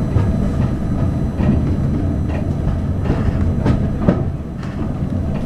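Railway coach running along the track, heard from inside: a steady rumble with the wheels clicking over rail joints every second or so.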